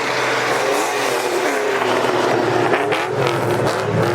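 Car engine running with a steady low drone, heard through dense background noise.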